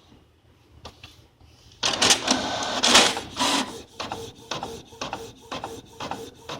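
A home printer printing: quiet at first, then a loud burst of mechanical feed noise about two seconds in, followed by a regular rhythm of short strokes about twice a second.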